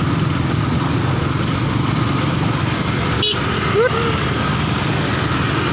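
Motorcycle engine running while riding at speed, with wind rushing over the microphone in a steady, loud roar. A brief click and a short chirping tone come a little past halfway.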